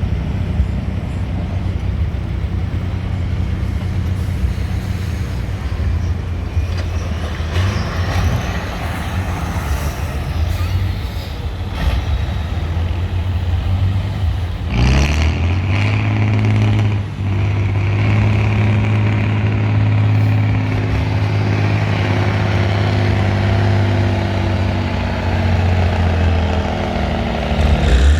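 Trial truck's engine working hard through an off-road trial section. About halfway through, the revs rise sharply and stay high.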